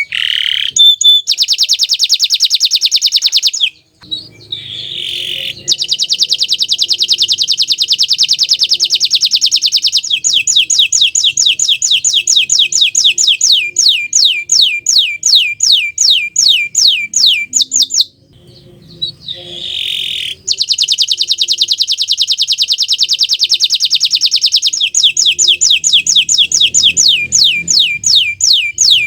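Domestic canary of the bottle-green variety singing a loud song of rapid rolling trills and runs of quick, repeated downward-sweeping notes. It pauses briefly about four seconds in and again around eighteen to twenty seconds.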